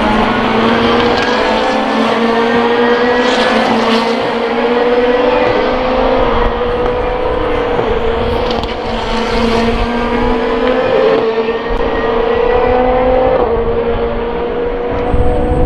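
SUPER GT race car engines under hard acceleration out of the final corner onto the main straight. The engine pitch climbs steadily, with brief drops at upshifts, and cars go by twice with a rush of noise.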